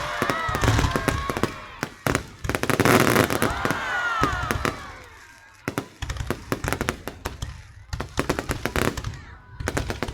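Fireworks bursting and crackling in rapid, irregular bangs, with a brief lull about halfway through before the bursts pick up again.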